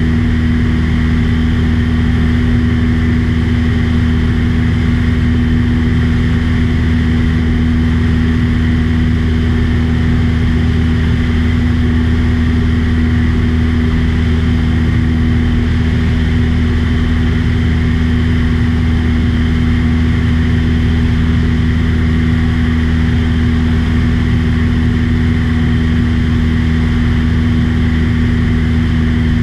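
Light aircraft's engine and propeller running steadily at a constant pitch in flight, a loud, unchanging drone.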